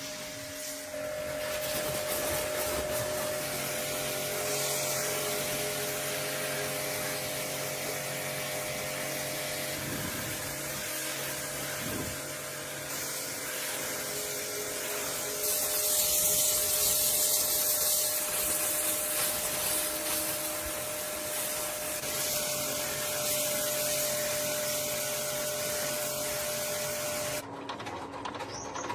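A small electric motor, such as a power tool, runs with a steady whine and hiss. The hiss gets louder for a few seconds in the middle, and the sound cuts off abruptly near the end.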